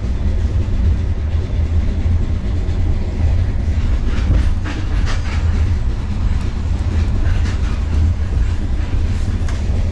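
Passenger train running on the rails: a steady low rumble with the intermittent clack of wheels over rail joints.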